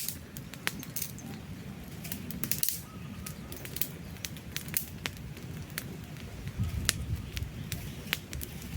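Wood campfire crackling, with irregular sharp snaps and pops, some in quick clusters, over a steady low rumble of the flames.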